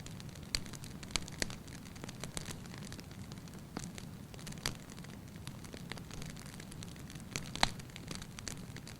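Fire burning in a fireplace, crackling with scattered sharp pops over a low, steady rush of flame; the loudest pop comes about three-quarters of the way through.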